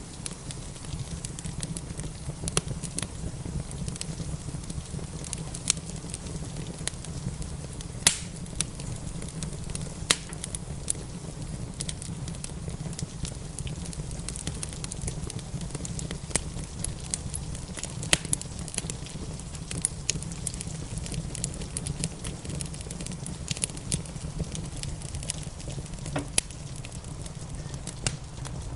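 Wood fire in a fireplace crackling with sharp, irregular pops, the loudest about eight and eighteen seconds in, over a steady low rush of rain.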